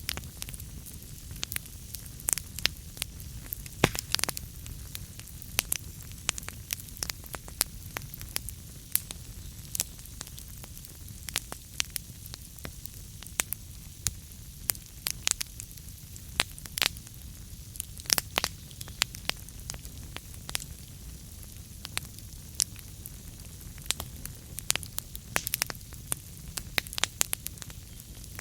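Wood fire burning in a fireplace: a steady low rumble and hiss of flames with frequent irregular sharp crackles and pops from the burning logs.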